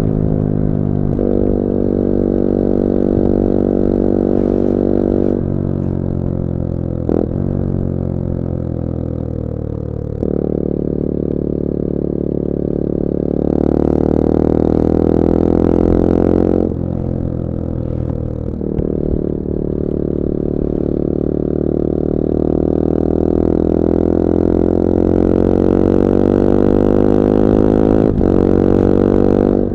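CF Moto-engined 250cc four-stroke motorcycle engine pulling under way, its revs rising and falling, with about seven sudden drops and jumps in pitch where gears change.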